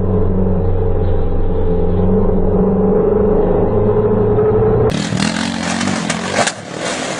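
A motor vehicle engine running at a steady pitch, then an abrupt change about five seconds in to a noisier rushing sound with a few knocks that drops away near the end.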